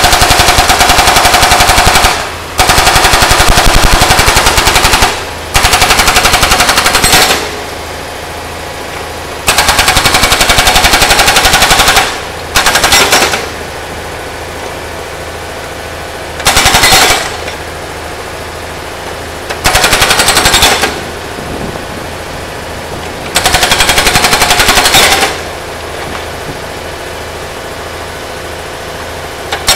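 Hydraulic breaker on a Kubota U50-5S mini excavator hammering on a cast-iron engine block in repeated bursts of rapid blows, each burst lasting one to three seconds. Between the bursts, the excavator's engine runs more quietly.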